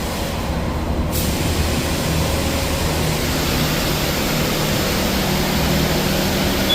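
Steady low hum of an idling car engine; about a second in, a steady rushing noise like air or water spray switches on and carries on over it.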